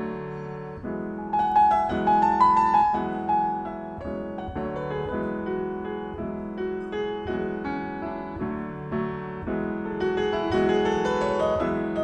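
Solo acoustic piano playing a lounge-jazz improvisation with an eastern, ethno-fusion flavour: struck notes over sustained chords, a melody line rising in the upper register, loudest about two seconds in.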